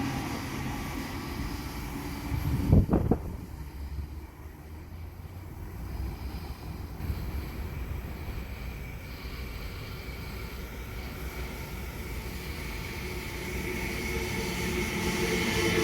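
Electric passenger train traction-motor whine and rumble fading away, with two or three sharp knocks about three seconds in. Then a low rumble, and near the end a train's whine builds again.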